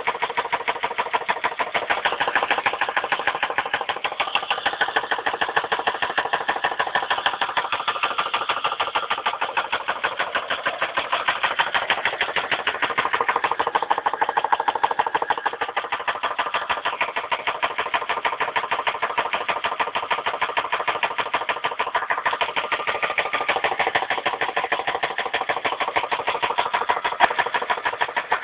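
2001 Dodge Intrepid's 2.7-litre V6 engine running with a rapid, even knock, a knock bad enough that the car had to be parked.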